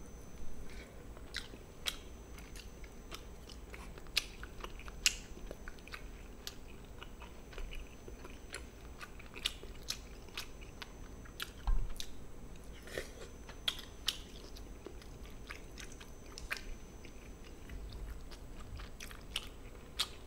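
A person chewing and biting food close to the microphone, with irregular sharp crunches and clicks.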